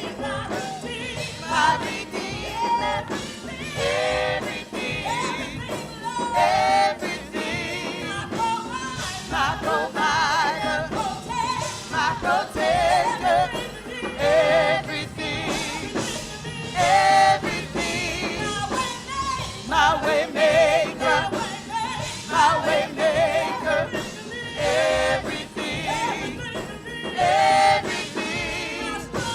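Gospel worship singing with vibrato-laden voices over instrumental backing.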